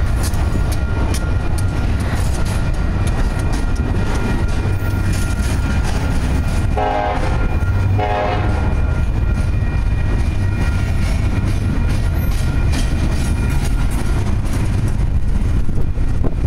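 Intermodal freight cars rolling past close by: a steady rumble and clatter of steel wheels on the rails. A train horn sounds two short blasts about seven and eight seconds in.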